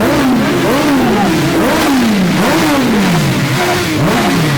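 Motorcycle engines being revved over and over, each throttle blip rising quickly in pitch and falling back, about once a second, with more than one engine overlapping.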